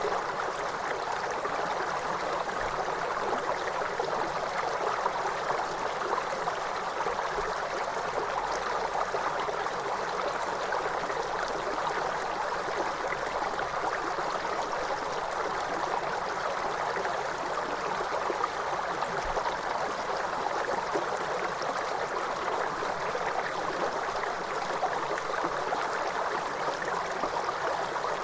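Waterfall: water falling and splashing in an even, unbroken noise.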